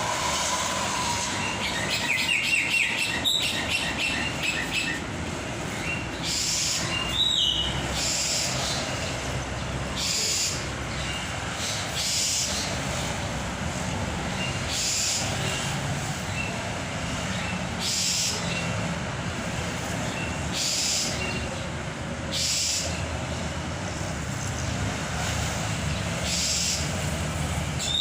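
Caged songbirds chirping: a quick trill of chirps a few seconds in and a few single higher calls later. Short hissing bursts recur every couple of seconds over a steady low rumbling background noise.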